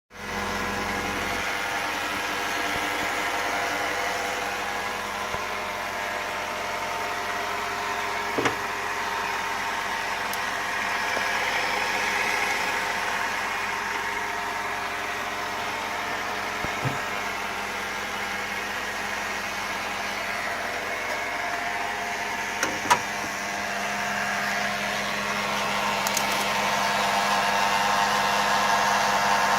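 2006 Volvo XC90's V8 engine idling with a steady whirring rattle, a noise the owner cannot place. A few short clicks stand out over it.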